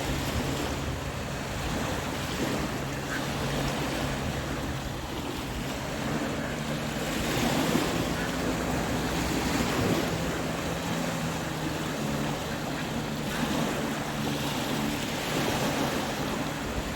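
Ocean surf breaking and washing ashore, the rush of water swelling and easing several times as waves come in, with wind on the microphone. A faint steady low hum runs underneath.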